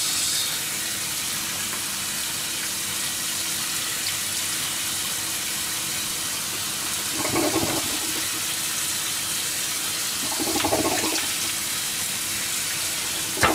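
Okonomiyaki of pork belly and cabbage sizzling steadily in a hot pan. Two short, louder spells come about seven and ten seconds in.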